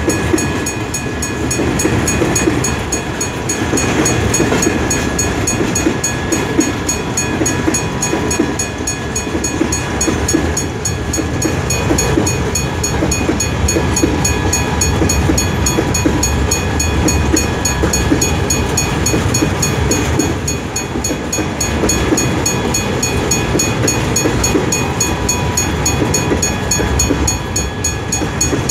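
Freight train rolling past on the track: a steady rumble of wagons and wheels with some clatter and faint, steady high-pitched wheel squeal over it.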